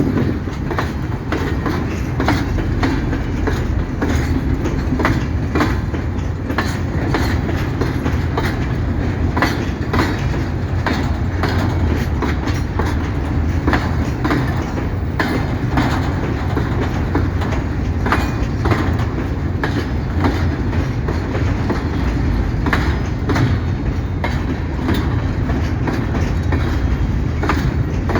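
Empty freight hopper wagons rolling past, with a steady rumble and frequent irregular wheel clacks over the rail joints.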